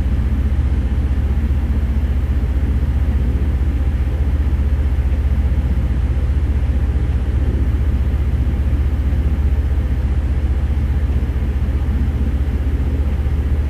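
Steady low engine drone that holds the same pitch and level throughout.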